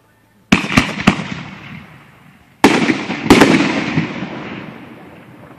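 Aerial fireworks shells bursting: three sharp bangs in quick succession about half a second in, then two more about two seconds later. Each is followed by a long, fading rumble.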